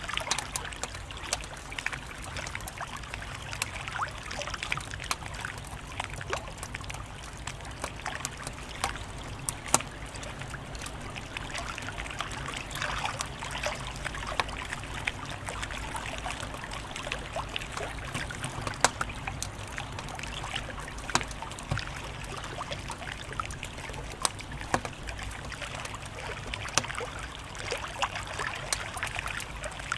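Wood fire crackling, with frequent sharp pops and snaps over a steady hiss, a few pops louder than the rest.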